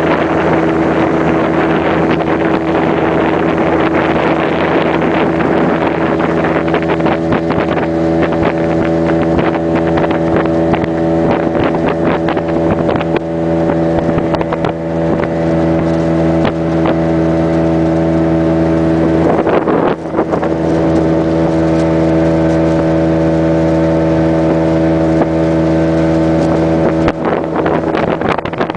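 Small boat's outboard motor running steadily at cruising speed, under a hiss of rushing water and wind.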